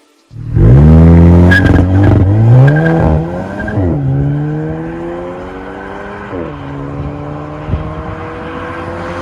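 Škoda Octavia RS's EA888 evo4 turbocharged four-cylinder through an MS-R valved cat-back exhaust, revving loudly and then accelerating hard. The engine note climbs in pitch and drops suddenly at two upshifts, about four and six and a half seconds in.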